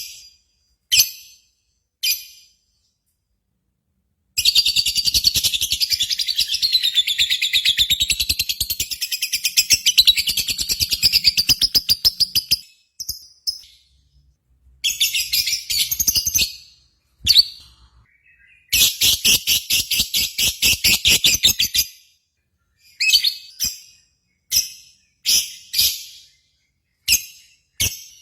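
Lovebirds singing: short sharp chirps, then three long, very rapid trills, the first lasting about eight seconds, followed by more separate chirps near the end.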